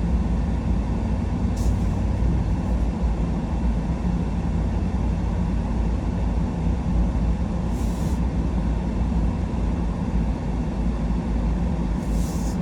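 Truck driving, a steady low rumble of engine and tyres on the road, with three brief hisses along the way.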